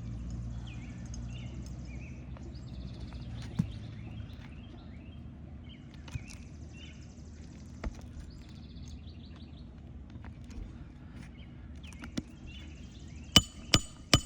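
Birds chirping and trilling over a low outdoor rumble, with a few single taps. Near the end a hammer starts striking a roofing nail into the shingle, about three blows a second; these blows are the loudest sound.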